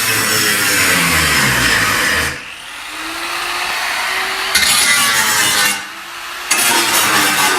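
A handheld power tool running in three bursts with short pauses between, its motor pitch falling during the first burst.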